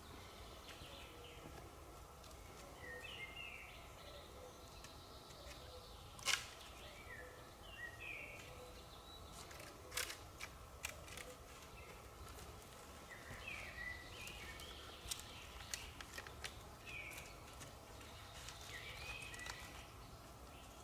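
Forest birds singing short, repeated chirping phrases, with a fainter low call in the background. Several sharp clicks or snaps cut through, the loudest about six and ten seconds in.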